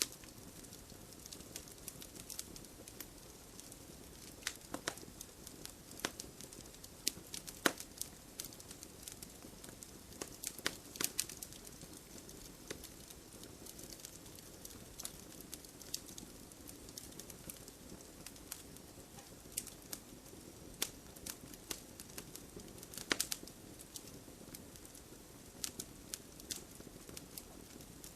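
Wood fire burning, with irregular sharp crackles and pops from the logs over a steady low hiss.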